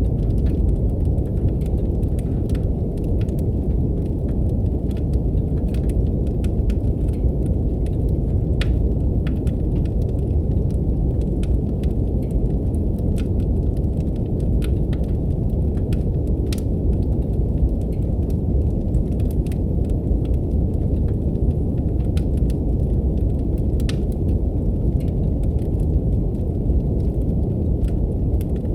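Steady brown noise, a deep even hiss, mixed with a fireplace's wood fire crackling: small sharp pops and ticks scattered irregularly over it.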